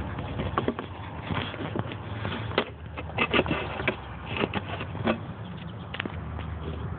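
Handling noise: scattered sharp clicks and knocks, a dozen or so at uneven intervals, over a steady low rumble.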